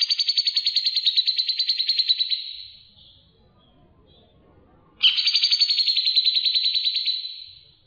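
A songbird's fast, even trill, given twice, each about three seconds long and fading away at its end; the second begins about five seconds in.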